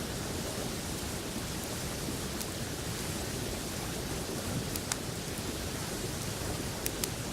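Wood campfire crackling, with a few sharp pops scattered through, over the steady rush of river water.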